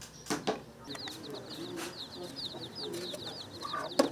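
Village yard sounds: a bird chattering in a fast, continuous run of high chirps, with chickens clucking low underneath. A few sharp knocks land near the start and again near the end, the last of them the loudest.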